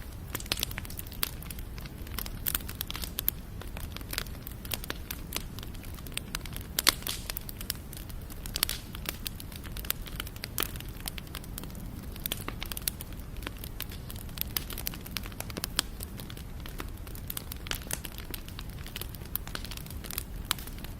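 Wood fire burning with steady irregular crackling and popping, sharp snaps scattered at random over a low, even rumble of the flames.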